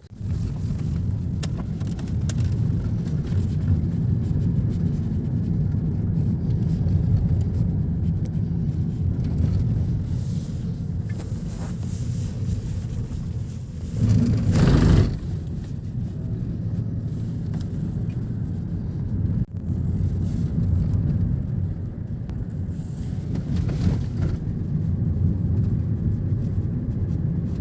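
Steady low rumble of a car in motion, heard from inside the cabin, with a brief louder whoosh about halfway through.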